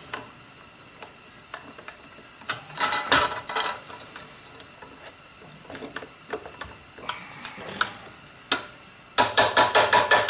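Metal parts of a disassembled forge blower being handled and adjusted on its shaft: scattered clicks and scrapes, then a quick even run of clicks near the end.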